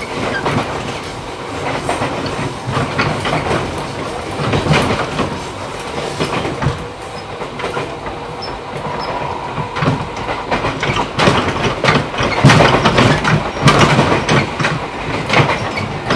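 JR 211 series electric train running at speed, heard from inside the motor car: steady rolling noise with the clack of wheels over rail joints and the hum of its DC traction motors. The clacking grows louder and busier about two-thirds of the way through.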